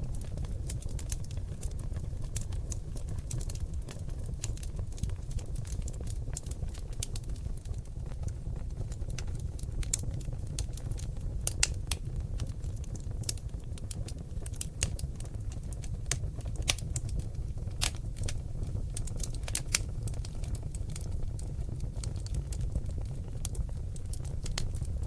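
Oak-log fire in a fireplace crackling: many sharp, irregular pops and snaps over a steady low sound of the burning flames, with a few louder pops about halfway through and again later.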